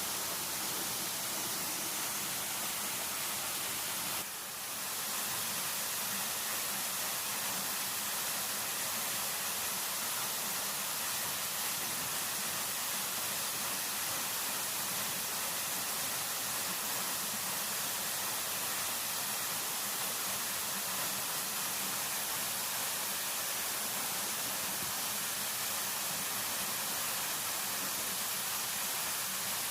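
Steady rushing water noise, even and unbroken, dipping briefly about four seconds in.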